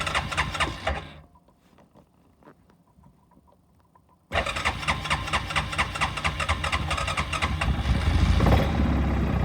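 2003 Yamaha Kodiak ATV's single-cylinder engine being cranked cold on its starter. The cranking stops about a second in, then after a few seconds' pause starts again until the engine catches near the end and runs, not yet on choke.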